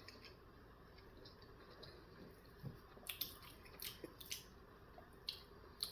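Faint wet chewing and mouth smacks of a person eating a bagel breakfast sandwich, a handful of soft clicks in the second half.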